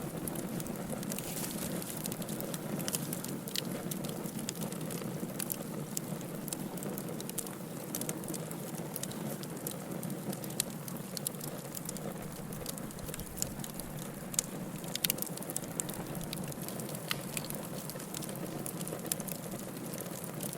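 Wood fire burning steadily, with a low hiss and rumble and frequent irregular sharp crackles and pops.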